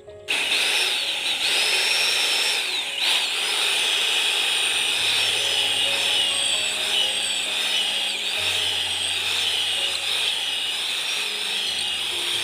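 Handheld electric power tool starting suddenly and running under load on wood, its high motor whine wavering up and down as the load changes.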